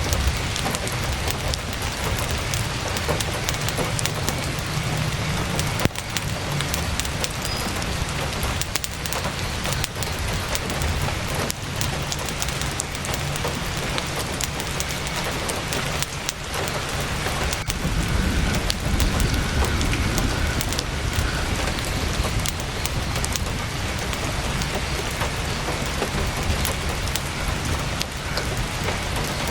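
Heavy rain falling on a tent canvas in a steady wash, with scattered sharp crackles of a campfire and a low rumble underneath.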